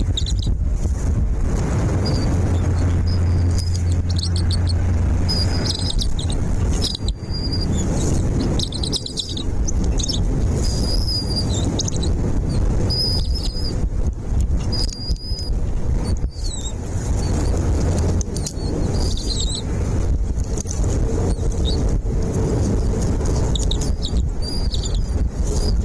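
Small birds giving short, high chirps again and again, over a loud, steady low rumble.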